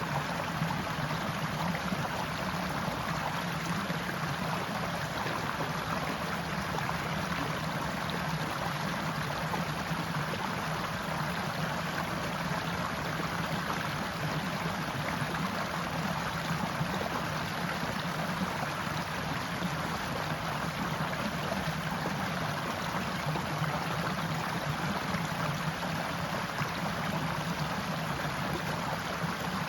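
Forest stream flowing: a steady, unbroken rush of running water.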